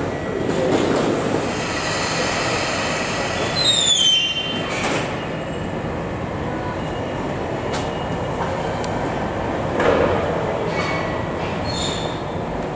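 Tobu 200-series limited express train pulling out of the station, its wheels and motors running steadily with high-pitched wheel squeals, a falling squeal about four seconds in and fainter ones near the end.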